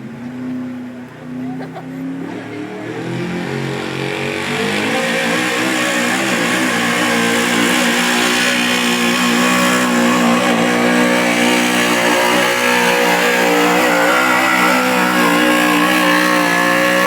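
A pulling truck's engine held at high revs under heavy load as it drags the sled, growing louder over the first few seconds, then running loud and steady with only small shifts in pitch.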